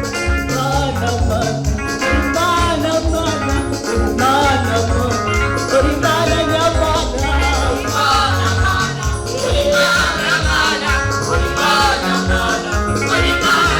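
Praise-and-worship gospel music: singing over a band, with a steady beat from bass and drums.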